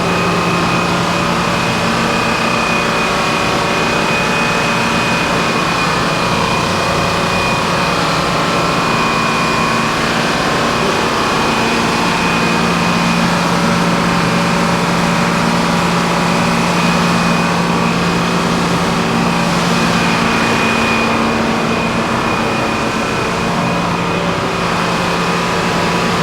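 Sawmill machinery running steadily: a loud engine hum with a constant high whine above it. The hum grows stronger for several seconds in the middle and again near the end.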